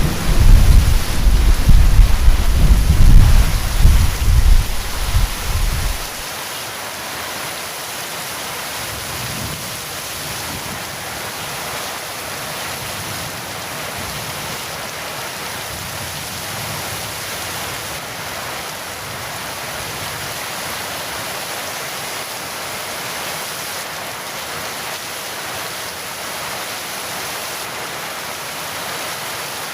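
Heavy rain falling steadily. A low rumble of thunder runs through the first six seconds, then stops abruptly, leaving the rain alone.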